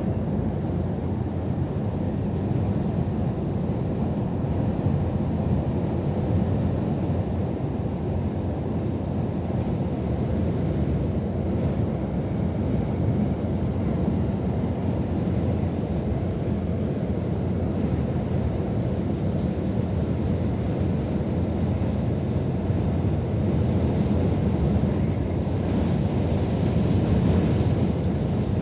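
Scania R500 truck on the move: a steady low drone of engine and road noise, growing a little louder and brighter near the end.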